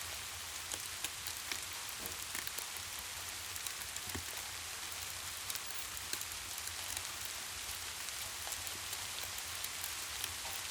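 Steady rain falling, an even hiss with many small sharp ticks and pops scattered through it, over a low steady rumble.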